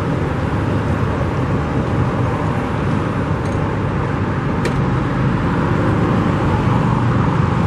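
Steady road traffic noise, a dense low rumble of passing vehicles.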